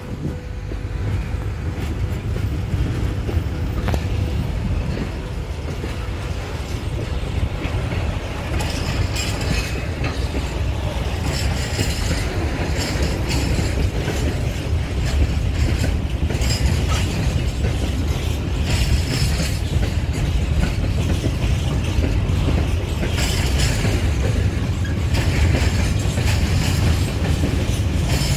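Freight train of open gondola wagons rolling past: a steady rumble of wheels on rail with clickety-clack over the rail joints. The clatter grows busier and a little louder from about a third of the way in.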